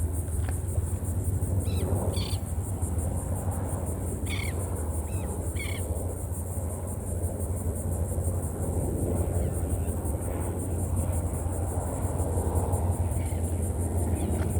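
A steady low outdoor rumble with a handful of short, high bird calls, about five, in the first half.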